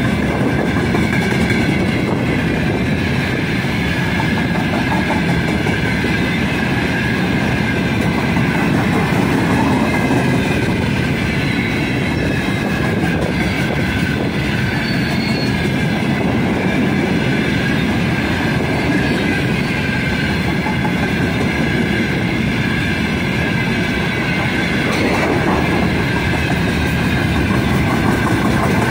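Open freight wagons of a long train rolling past close by: a steady, loud rumble and clatter of steel wheels on the rails, with thin ringing tones from the wheels above it.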